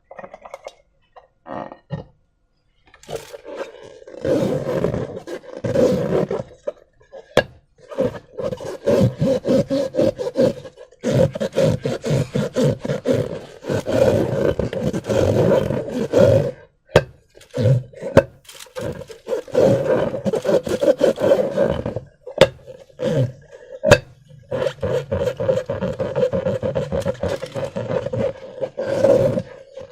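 Rubber balloon squeaking in rapid stuttering runs that hold a steady pitch. The runs last a few seconds each and are broken by short pauses, with a few sharp clicks between them.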